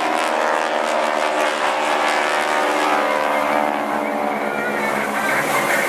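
A light propeller aircraft's piston engine droning in flight, its pitch sliding slightly as it passes. Music starts to come in near the end.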